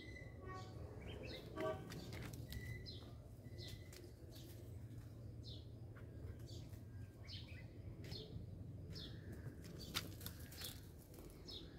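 Small birds chirping, short high chirps repeating about once a second, over a low steady background rumble. A sharp click about ten seconds in.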